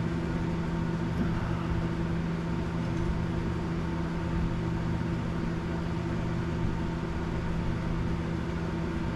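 Steady mechanical hum of a running electric motor, holding a constant pitch and level throughout.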